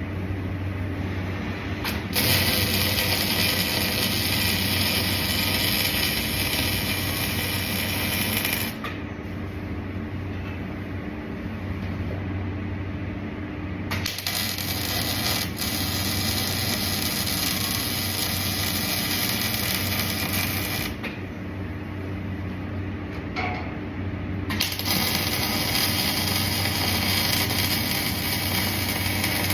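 Electric arc welding: three welds of several seconds each, the arc crackling and hissing, starting and stopping cleanly, over a steady low hum.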